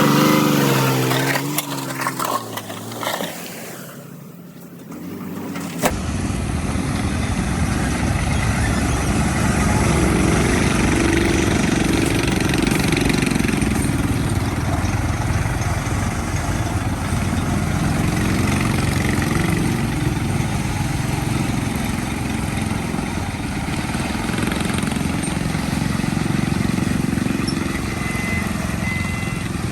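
A pitched sound that glides up and down for the first six seconds or so, then a sudden cut to a heavy diesel engine of earthmoving machinery running steadily under load.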